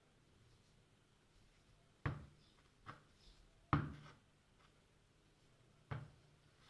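Three sharp knocks, with a fainter one between the first two, spaced a second or two apart against a quiet room background.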